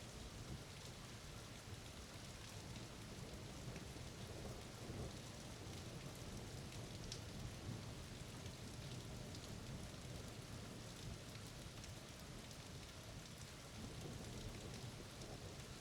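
Steady rain falling in a thunderstorm, with a low rumble of thunder underneath and scattered ticks of drops.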